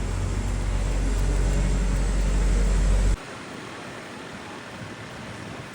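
Steady low rumble of outdoor background noise that cuts off abruptly about three seconds in, giving way to a much quieter steady background hiss.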